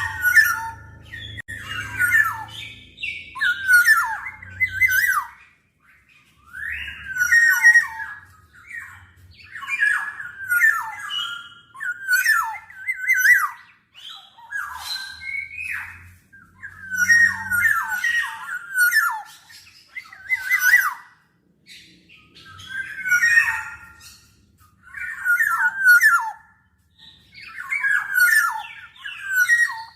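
Black-naped oriole calling: short, scratchy phrases repeated about every two seconds, a dozen or so in all.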